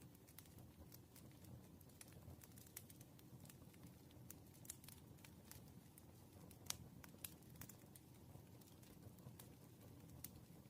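Faint, scattered ticks and taps of pen-and-paper desk work, irregular and with one sharper click a little past the middle, over a low steady room hum.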